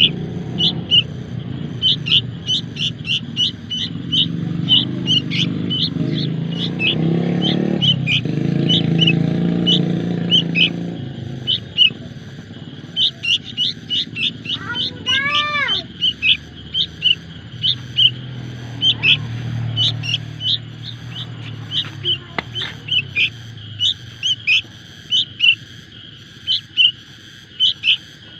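Baby bird begging with rapid, repeated high-pitched chirps as it is fed, the food-begging calls of a hungry nestling. A low rumble sits underneath at times, and one rising-and-falling tone sounds about halfway through.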